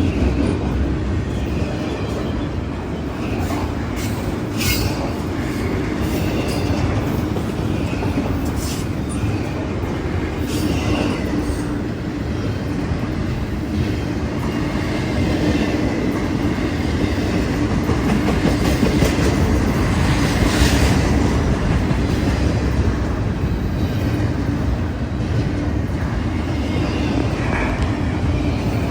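A train rolling past on the tracks: a steady loud rumble of wheels on rail with clacking over the joints, and brief high wheel squeals now and then.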